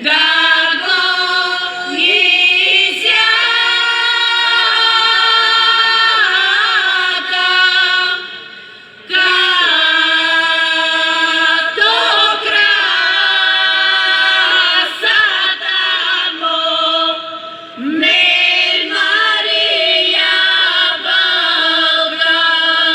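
A women's folk singing group singing a cappella, several voices together in long held phrases, with two short breaks for breath about nine and eighteen seconds in.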